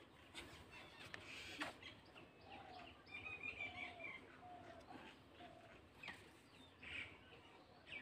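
Faint chirping from several small birds, with another bird repeating a short, low, even note several times midway. A single sharp click about one and a half seconds in is the loudest sound.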